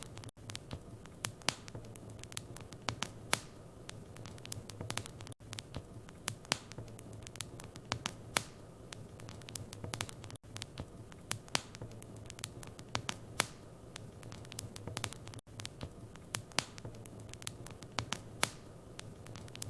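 Wood fire burning in a fireplace, crackling and popping irregularly over a steady hiss and low hum, with a brief dropout about every five seconds.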